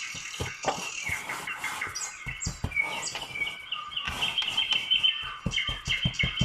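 Small birds chirping and twittering continuously, with a quick run of soft low knocks near the end.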